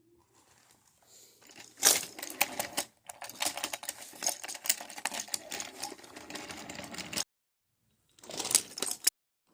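Rapid clattering and clicking of small hard objects. It starts about two seconds in, cuts off abruptly after about seven seconds, and comes back in a short burst near the end.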